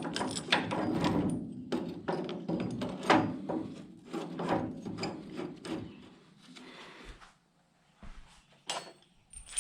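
A string of sharp knocks and clanks from hand tools at work on the car's front-end sheet metal, about two or three a second, thinning out to a few faint clicks in the last few seconds.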